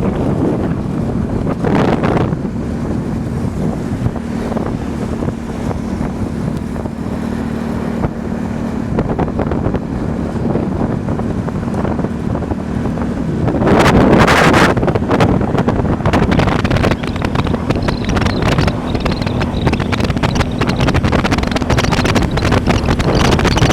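Road vehicle noise: an engine running steadily with a low hum, under heavy wind noise on the microphone. About fourteen seconds in comes a loud rush of noise that lasts about a second.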